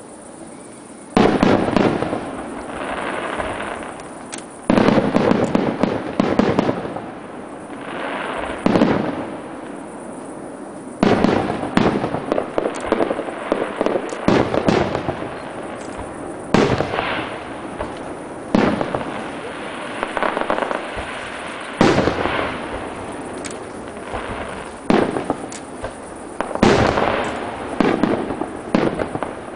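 Aerial firework shells bursting one after another, about a dozen sharp bangs every two to three seconds, each followed by a crackling rush that fades away.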